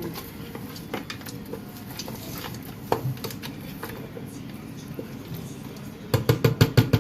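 A kitchen utensil clinking and knocking against cookware, with scattered single knocks and then a quick run of about eight louder knocks near the end.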